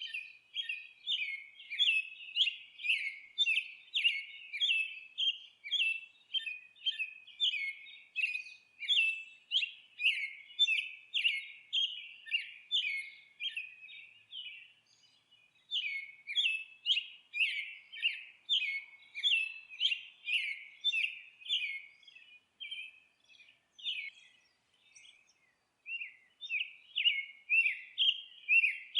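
Songbird chirping in a quick, steady series of short notes, about two a second. The song breaks off briefly around the middle and again a few seconds before the end.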